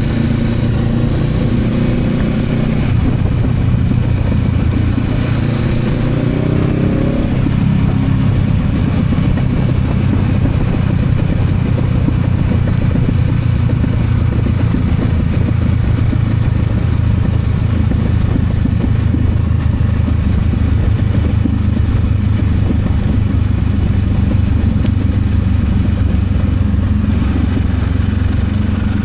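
Honda CB500X motorcycle's parallel-twin engine under way: its pitch climbs as it accelerates over the first seven seconds or so, then it settles into a steady cruise under a constant rush of wind and road noise.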